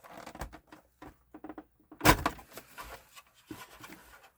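Hard objects being handled and set down: scattered clicks and knocks, with one louder knock about two seconds in.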